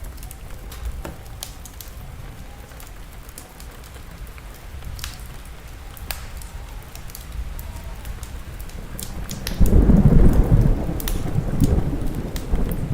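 Crackling wood fire, sharp pops scattered throughout, over a low rumble of rain and thunder. About nine and a half seconds in, a loud roll of thunder breaks in and rumbles on.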